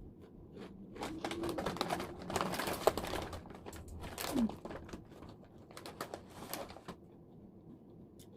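Crunchy snack chips being chewed close to the microphone: a dense run of crisp crackles about a second in, thinning out into a few smaller crunches and stopping about seven seconds in.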